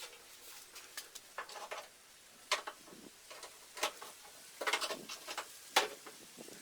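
Irregular sharp clicks and light knocks, a handful spread over several seconds, from hand tools and parts being handled during work on a car.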